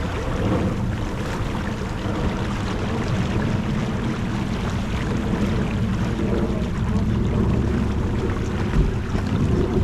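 Wind buffeting the microphone over the steady rush of water along a sailing yacht's hull while under way, with one short knock near the end.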